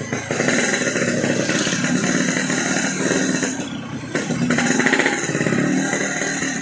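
Yamaha RX-King two-stroke single with a gutted bobokan exhaust, pulling away from low revs, easing off about three and a half seconds in, then pulling again.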